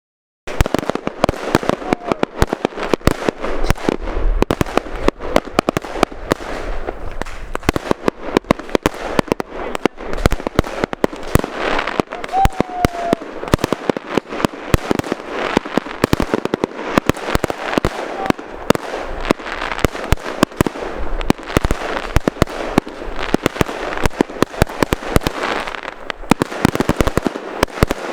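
Many fireworks going off at once, starting about half a second in: a dense, unbroken string of bangs and crackles.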